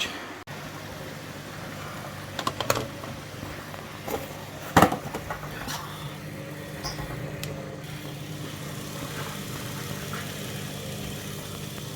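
Front-loading washing machine's drain pump running, a steady low hum from its coil-and-permanent-magnet motor as it pumps water out through the drain hose. A few knocks cut through, the sharpest about five seconds in.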